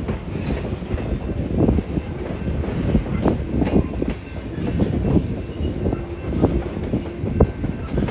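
Freight train's cars rolling past, their wheels clacking over the rail joints again and again over a steady low rumble.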